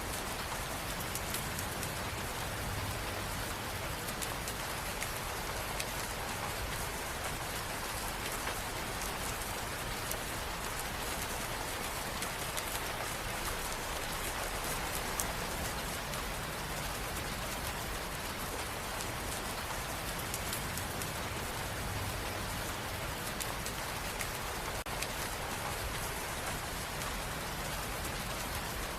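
Steady rain falling and pattering on a surface, an even hiss dotted with the ticks of individual drops.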